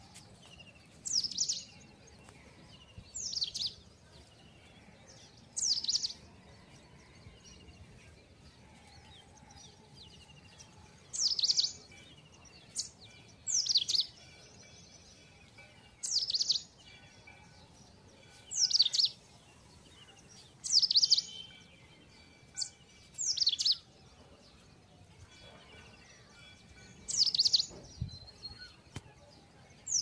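A bird calling repeatedly: about eleven short, high calls, each sweeping downward in pitch, spaced two to five seconds apart, over faint steady background noise.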